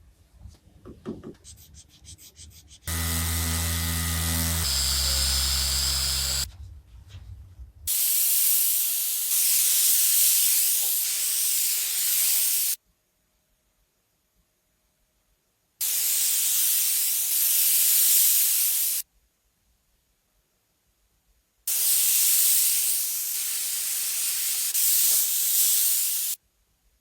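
Spray gun hissing in three long bursts of several seconds each, each starting and stopping abruptly, as paint is sprayed onto the car. Before the first burst, a low droning machine sound runs for a few seconds.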